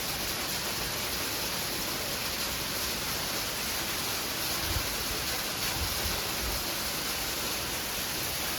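Sleet falling steadily, a continuous hiss of ice pellets hitting surfaces, with a few low thumps around the middle.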